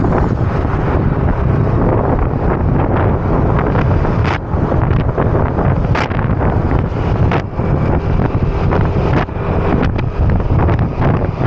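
Loud wind buffeting the microphone of a moving motor scooter: a steady, rough rumble broken by short crackling gusts every second or two.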